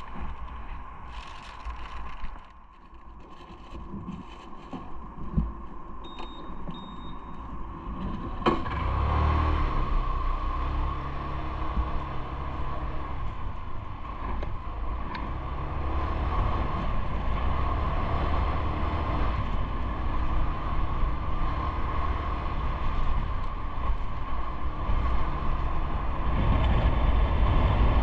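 Road vehicle noise heard from a bicycle. It grows into a steady, louder rumble about eight seconds in.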